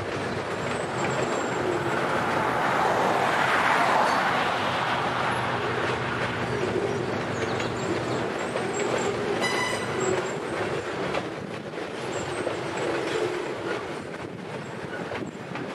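Freight train of boxcars rolling past, a steady rumble of wheels on the rails that is loudest a few seconds in and eases off later, with one brief wheel squeal about ten seconds in.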